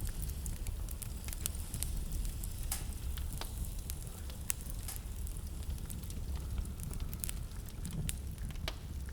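Wood fire crackling in a fireplace: irregular sharp pops and snaps scattered over a steady low rumble.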